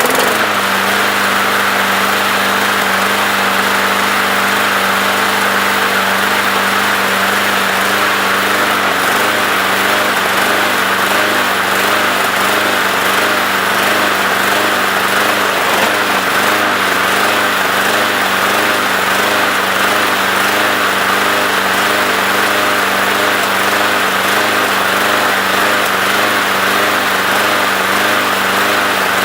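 Briggs & Stratton single-cylinder lawnmower engine running at a steady speed on its freshly rebuilt carburetor.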